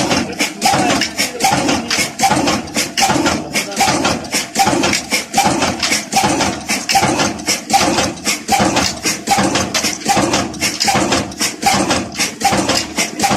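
Old Ruston Hornsby stationary diesel engine running steadily, its firing and valve gear giving an even beat of sharp knocks several times a second.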